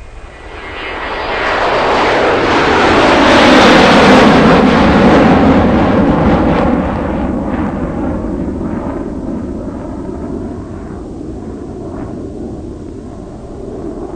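Jet airliner engine noise swelling over about three seconds to a peak and then slowly fading away.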